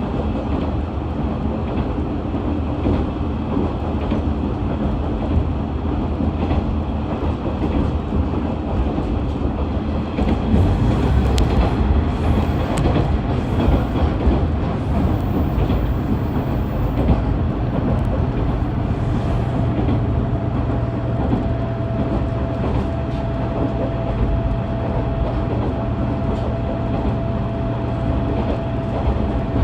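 Inside a KiHa 110 series diesel railcar under way: its diesel engine drones under steady running noise and the clatter of the wheels on the rails. It grows a little louder about a third of the way in, and a steady hum and a thin, steady tone join around two-thirds of the way through.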